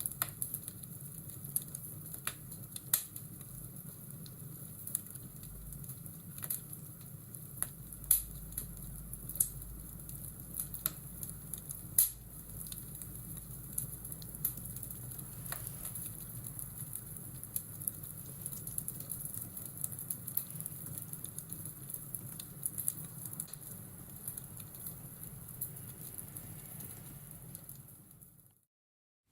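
Fireplace ambience: a wood fire crackling with irregular sharp pops over a steady low rumble, fading out near the end.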